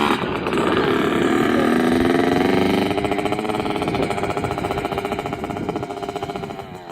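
Dirt bike engine running hard with a buzzing note, its pitch shifting as the throttle changes, then growing gradually fainter over the last few seconds as the bike moves away.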